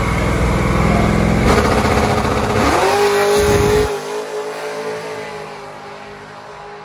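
Drag car's engine running loud at the starting line, revving up about three seconds in and holding a steady high note, then launching off the line about four seconds in and fading as it runs down the strip.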